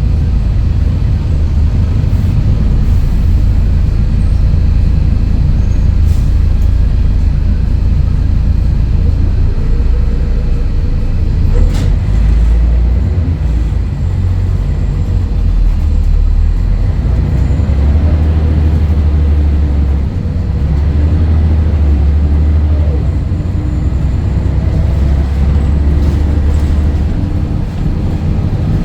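Scania DSC11 diesel engine of a Scania L113CRL bus running under way, a loud steady low rumble whose note steps up and down several times in the second half. A single sharp click about twelve seconds in.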